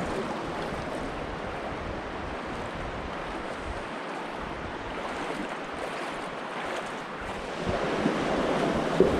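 Steady rush of wind and waves washing against rocks, with wind buffeting the microphone; it swells louder near the end, where a brief sharp knock is heard.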